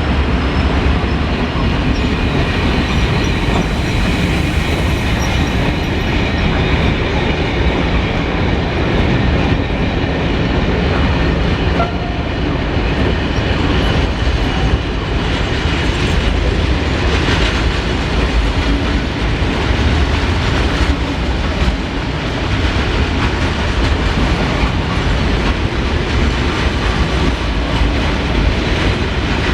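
Freight train passing through a station at speed, its wagons rumbling steadily with the wheels clattering over the track.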